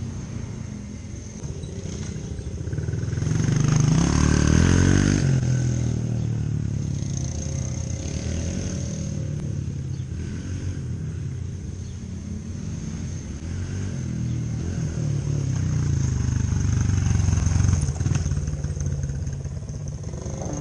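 Dirt bike engine running and revving, rising in pitch and loudness about four seconds in, easing off, then swelling again near the end.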